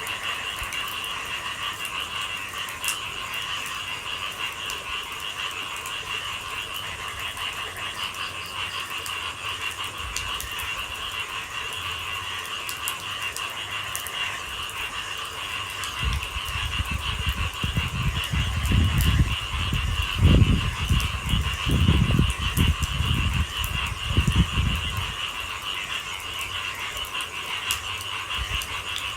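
Night frog chorus with a steady high trilling, over light rain. From about halfway in, a run of loud, deep, low pulses lasts around nine seconds, then fades.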